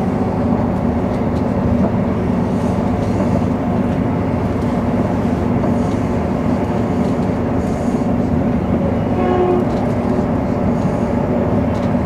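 Running noise of a passenger train at speed, heard from inside the carriage: a steady rumble with a low drone.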